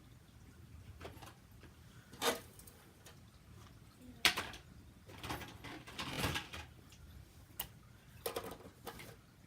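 Toy train track pieces being handled and fitted together: a series of irregular clicks and clatters, the loudest a bit over four seconds in.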